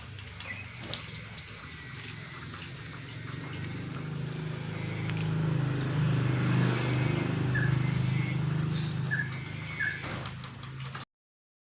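A few short, high chirps from a bird, most of them in the second half, over a steady low hum that grows louder toward the middle and then eases. Everything cuts off suddenly about a second before the end.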